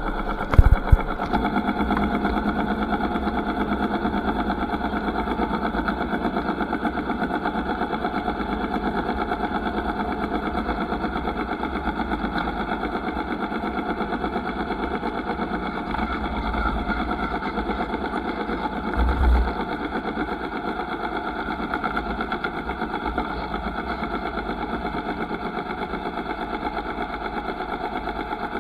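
Motorcycle engine running steadily, with brief low thumps about a second in and again about two-thirds of the way through.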